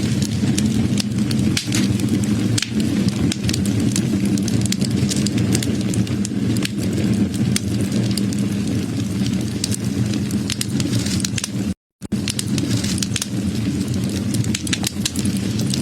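Wood fire burning, with a steady low rumble under frequent sharp crackles and pops from the burning wood. The sound cuts out completely for a moment about twelve seconds in.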